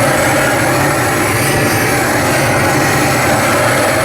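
Steady, loud roar of a burner burning built-up sugar residue off a stainless steel grill grate.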